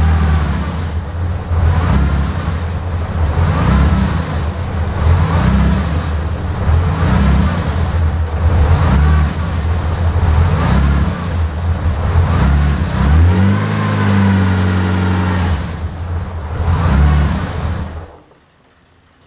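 Bugatti Type 35's straight-eight engine, freshly cold-started, being blipped repeatedly, its revs rising and falling about once a second. It is then held at a steady higher speed, blipped once more, and switched off near the end, the sound cutting off suddenly.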